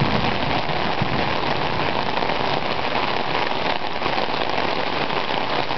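Rain falling steadily in a storm, an even, unbroken hiss of drops.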